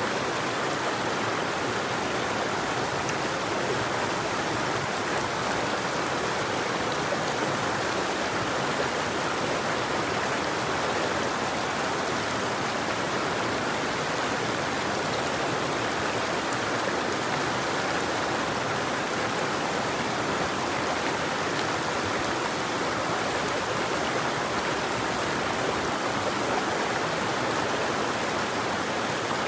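River water flowing and rushing over rocks: a steady, even splashing.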